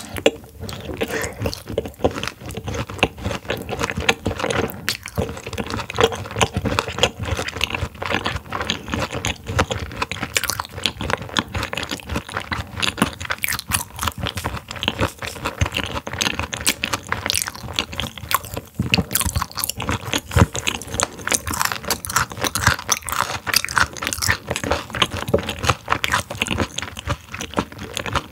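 Close-miked chewing of partly frozen raw silver pomfret sashimi, with dense, rapid crunching and crackling in the mouth.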